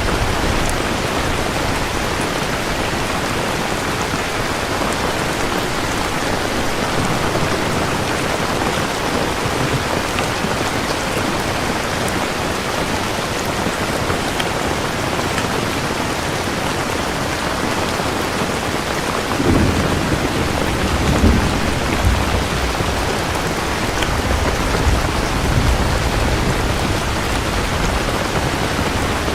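Steady heavy rain falling, with a low thunder rumble rolling in about two-thirds of the way through and swelling a few times.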